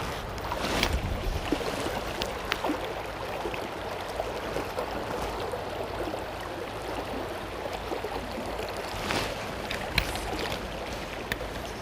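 River water flowing past, a steady rush, with a few short sharp clicks or splashes.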